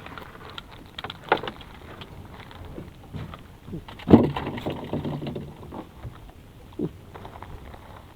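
Scattered knocks and clatter over a steady hiss, with one loud thump about four seconds in.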